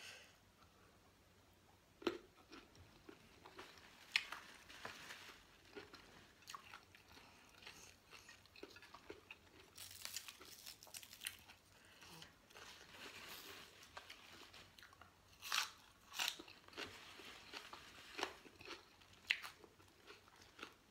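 Faint close-up eating sounds: a person chewing and biting crunchy raw vegetables with a rice-noodle salad. Sharp crunches come scattered through, with several close together about ten seconds in and again around fifteen to sixteen seconds in.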